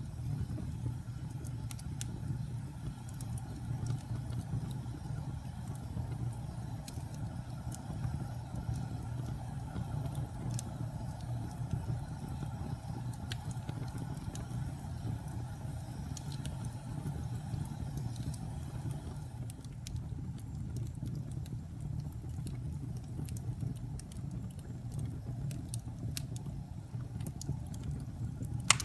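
Wood fire burning: a steady low rumble of the flames with scattered small crackles at irregular times, and one sharper, louder pop near the end.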